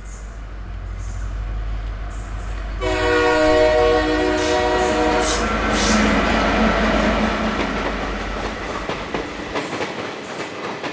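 Indian Railways train running past with a steady rumble and wheel clatter; its locomotive horn sounds one blast of about two and a half seconds roughly three seconds in. The low rumble drops away near the end.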